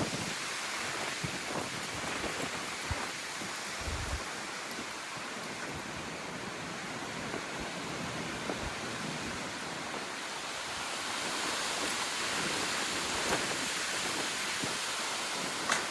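Windstorm: a steady rushing of strong wind, swelling slightly after about eleven seconds, with scattered small ticks and knocks and a sharper tick near the end.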